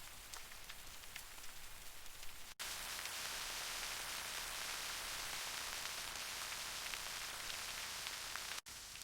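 Rain falling with scattered drips, cut off abruptly about two and a half seconds in by a louder, steady hiss that runs until another sudden cut near the end.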